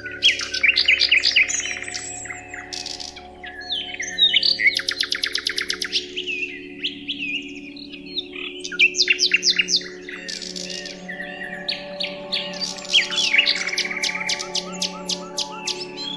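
Several songbirds chirping, trilling and whistling at once, with rapid trills and quick calls overlapping throughout, over a soft steady low drone.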